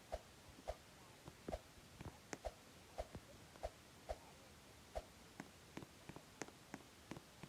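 Faint, irregular soft taps or knocks, about one or two a second, with a few sharper clicks near the end.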